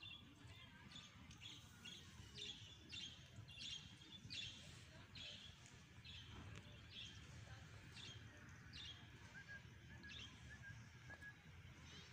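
A bird calling over and over in short, high chirps that fall in pitch, a little more than one a second, stopping about nine seconds in; faint, with a low background rumble.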